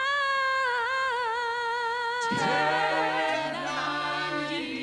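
A cappella vocal group singing. One high voice holds a long note with vibrato, then lower voices come in about halfway through and sustain a chord beneath it.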